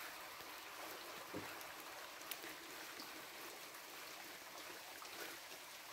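Steady rain falling, an even faint hiss, with a couple of small taps in the first half.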